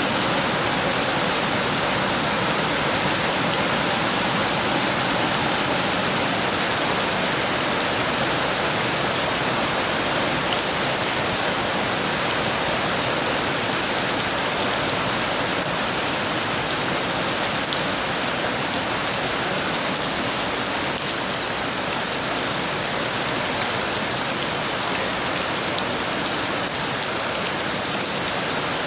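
Heavy rain falling steadily, an even hiss with no thunder heard.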